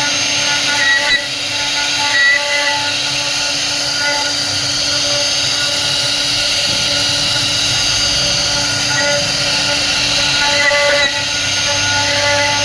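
CNC router spindle running steadily with a high whine and hiss, cutting wood.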